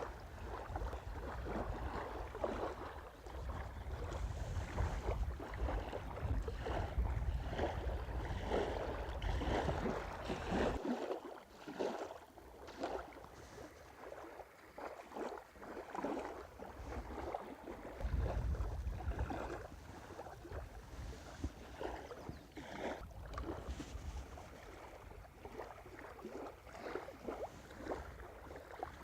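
Wind buffeting the microphone in gusts: a heavy low rumble that drops out suddenly about eleven seconds in and returns briefly around eighteen seconds, over a steady rustling noise.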